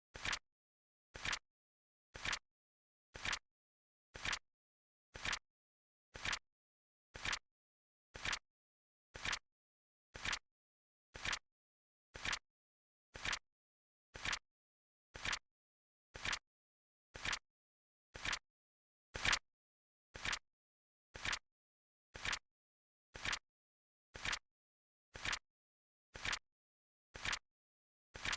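Flip clock timer's flip sound effect ticking about once a second, each tick a quick double click. One tick, a little past the middle, is a little louder than the rest.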